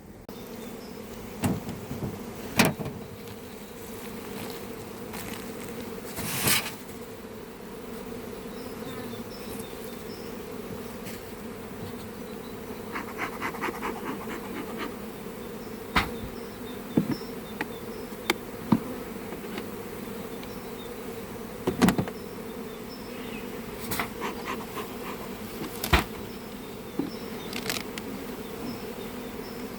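A mass of honeybees buzzing, a steady low hum that does not let up. Sharp clicks and knocks sound on top of it a dozen or so times.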